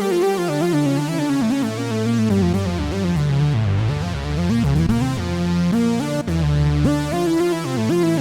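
Arturia Matrix-12 V software synthesizer (an emulation of the Oberheim Matrix-12) playing a polyphonic patch: layered chords and a low bass line with gliding, sweeping pitches.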